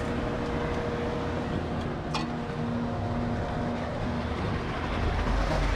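Steady motor vehicle noise: a running engine with a broad rush and a faint hum, growing a little louder near the end, and one sharp click about two seconds in.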